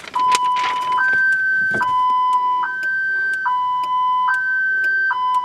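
Car alarm siren going off in a two-tone hi-lo pattern, a lower and a higher tone alternating about every 0.8 s: the 2000 Chevrolet Impala's security system has been tripped.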